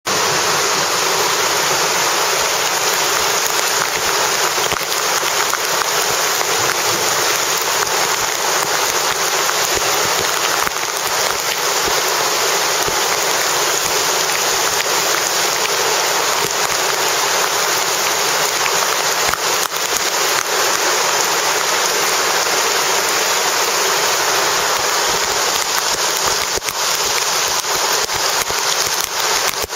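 Rain falling steadily: a dense, even hiss with scattered sharper drop hits.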